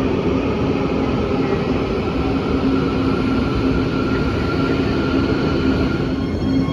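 Quito Metro train running: a steady rumble of rolling noise with a steady low hum and a higher whine that fades near the end.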